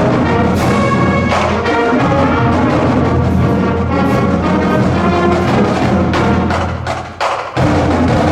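Full high school marching band playing loudly, brass over drums. About seven seconds in the sound briefly drops away, then the full band comes back in.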